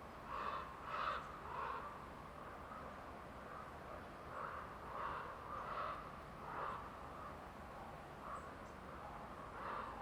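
A bird calling in short repeated calls, three in quick succession at the start, four more in the middle and another near the end, over a steady forest background.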